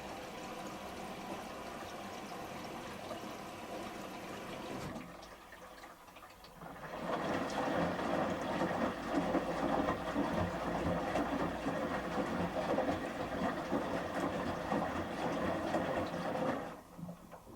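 Water rushing into a Samsung Series 5+ washing machine during its final rinse fill. The flow dips about five seconds in, comes back louder, and cuts off suddenly near the end as the inlet valve closes.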